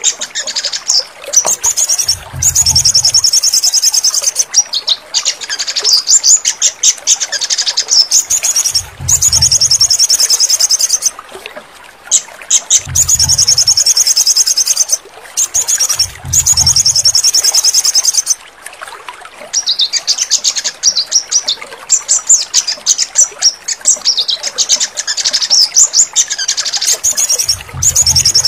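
Sogon songbird singing: loud, rapid, high trilled phrases, each one to three seconds long and repeated with short pauses between them, as a song recording played to coax silent caged birds to sing. A few brief low thuds sound under the song, about two, nine, thirteen, sixteen and twenty-eight seconds in.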